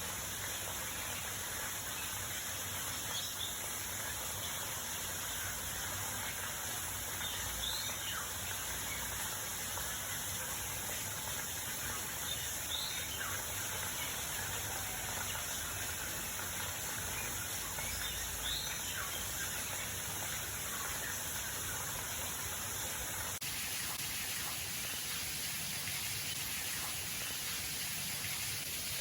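Steady outdoor background hiss with a few faint, short bird chirps scattered through it; the background changes slightly about three-quarters of the way through.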